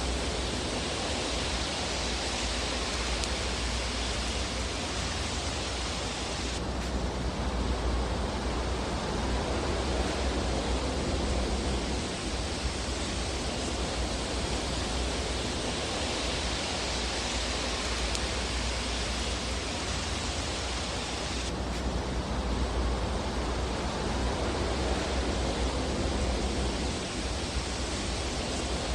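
Fireplace fire ambience: a steady, even rushing hiss with no distinct loud pops. The upper hiss drops abruptly about seven seconds in and again at about 21 seconds, then slowly swells back.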